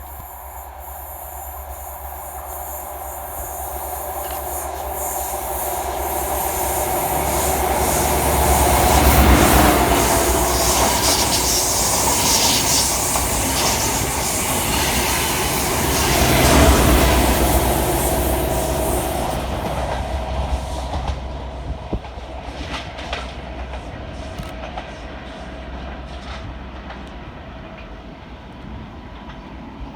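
High-speed train with a Class 43 diesel power car at each end passing fast through a station, with rumble and rail clickety-clack. It builds to its loudest about nine seconds in, peaks again around seventeen seconds, then fades away with scattered wheel clicks.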